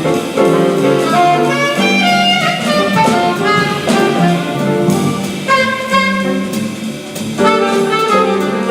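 Live small-group jazz: a saxophone plays a melodic line over piano and a drum kit, with cymbals keeping time.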